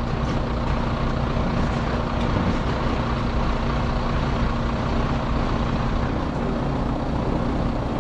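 Heavy truck diesel engines running steadily, with a constant hum, as the recovery truck holds the lifted lorry at full boom lift.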